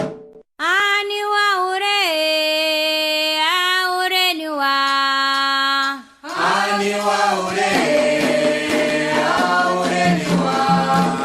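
Candomblé chant to the orixás sung in call and response: a single voice sings a solo line of long held notes, then after a short break about six seconds in a group of voices answers together.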